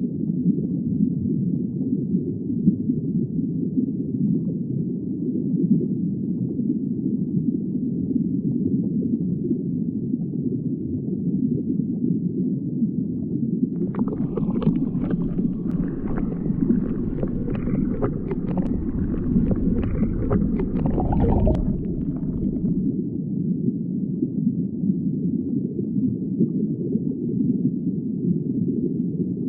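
Muffled underwater ambience: a steady low rumble and wash. About halfway through, a stretch of clicking and crackling joins it for roughly eight seconds, with a deeper rumble underneath.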